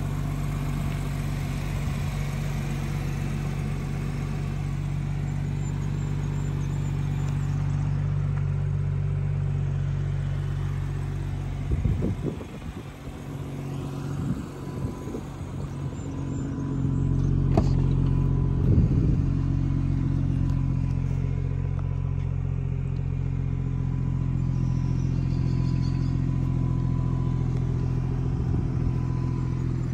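BMW 440i's 3.0-litre turbocharged straight-six idling steadily. The idle hum drops away for a few seconds near the middle, and a sharp click comes a little later.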